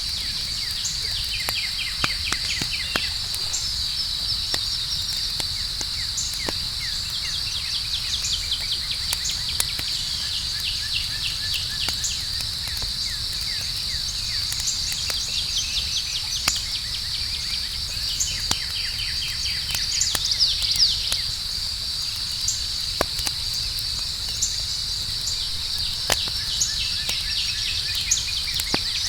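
Campfire crackling with scattered sharp pops, over a steady high-pitched chorus of night insects with trilling chirps that come and go.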